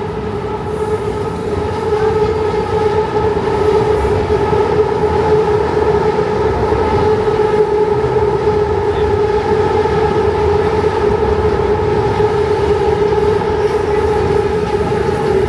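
A BTS Skytrain train on the elevated line: a loud steady hum with a held tone, growing a little louder about two seconds in.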